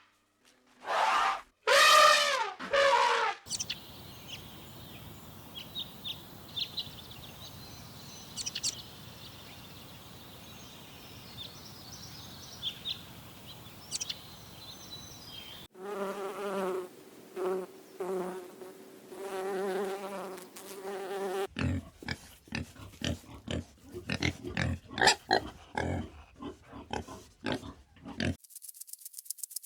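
A sequence of different animal calls. First come a few pitched calls, then a long stretch of faint background with scattered high chirps. A run of repeated calls follows, and near the end a fast series of sharp clicking pulses.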